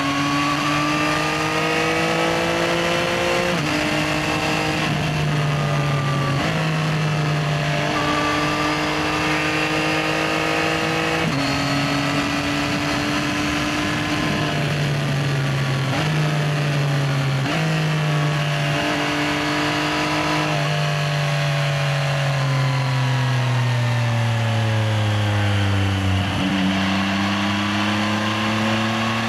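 Yamaha XSR900's 890cc inline-triple engine pulling through the gears: its pitch climbs and drops sharply at each of several upshifts. Later the pitch falls for several seconds as the bike slows, then it starts climbing again near the end.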